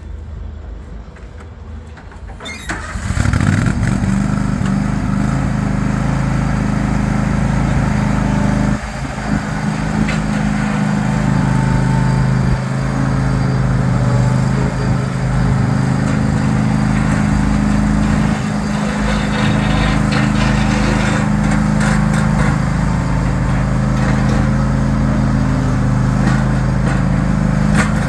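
A 2010 John Deere X540 lawn tractor's V-twin engine starts up about three seconds in, then runs steadily at an even speed.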